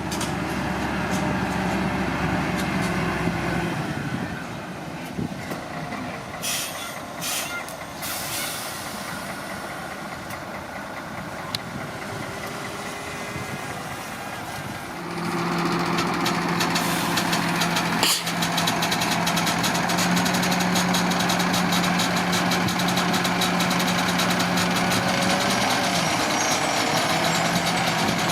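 Komatsu D41P bulldozer's diesel engine running, low and quieter at first, then revving up about fifteen seconds in and holding a steady, louder, higher note. A few short clanks sound about six to eight seconds in, and one sharp knock a few seconds after the revs rise.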